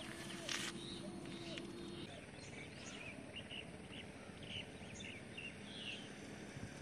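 Faint outdoor ambience: a steady background hiss with small birds chirping now and then, and a low steady hum that stops about two seconds in.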